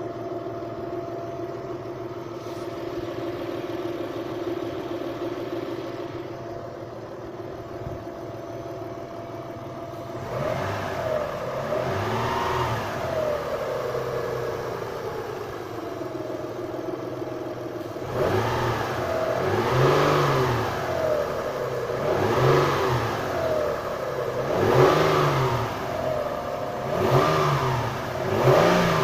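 Mitsubishi Galant's 2.5-litre 6A13 V6 engine idling steadily, then revved: one slow rev about ten seconds in, and from about halfway on a series of quick throttle blips, one every two to three seconds, each rising and falling in pitch.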